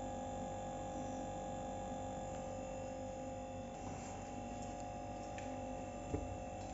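Refrigerator compressor running with a steady hum and a few held tones, with a single faint click about six seconds in.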